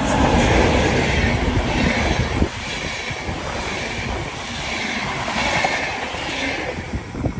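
A train passing on the rails: a steady rush of wheel and rail noise, loudest in the first couple of seconds, with a faint high whine from the wheels.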